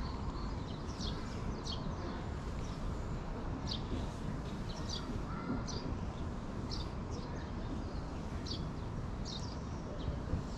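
Small birds chirping in short, high, repeated notes at irregular intervals over a steady low outdoor rumble.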